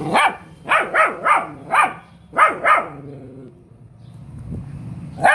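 Dog barking: seven short, sharp barks in quick succession over about three seconds, then a pause of about two seconds.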